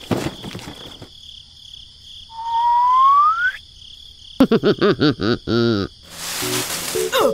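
Added sound effects over a steady high insect-like chirring: one rising whistle about two seconds in, then a quick run of warbling calls and a short hiss near the end.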